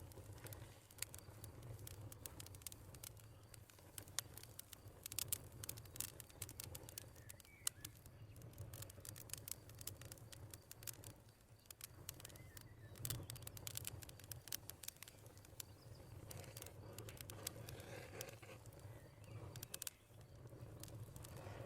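Wood fire crackling, with irregular sharp pops and snaps over a steady low rumble, and a few faint bird chirps now and then.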